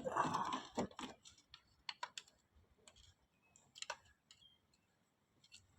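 Scattered light clicks and knocks of hand tools and metal parts being handled in an engine bay, irregularly spaced, with a brief rustling scrape right at the start.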